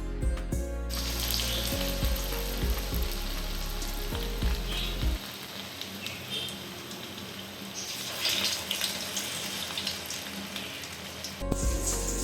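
Medu vada deep-frying in hot oil, a steady sizzle, with background music over the first five seconds and coming back near the end.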